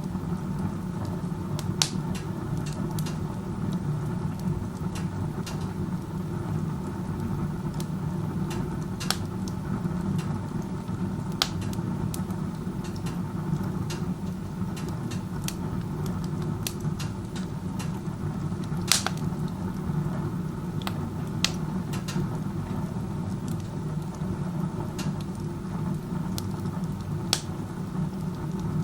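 Wood stove burning with its door open like a fireplace: the chimney draws hard, giving a steady low rumble of air and fire, with sharp crackles from the burning wood now and then. The very strong draft is a sign of poor combustion efficiency in this open-door use.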